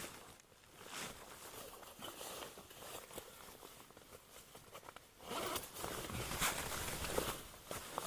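A zipper being pulled, with fabric rustling, louder from about five seconds in, as clothes are changed in a tent.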